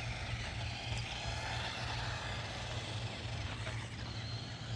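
A small 1/18-scale electric RC monster truck running, its motor whining faintly and wavering with the throttle over a steady hum and tyre noise.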